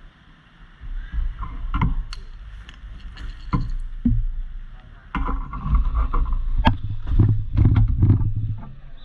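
Floodwater sloshing and splashing over a low rumble, with scattered knocks, louder in stretches from about a second in and from about five seconds in.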